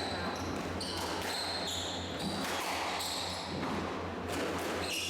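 Squash rally: the ball striking rackets and the court walls, with short high squeaks of players' shoes on the court floor over a steady low hum.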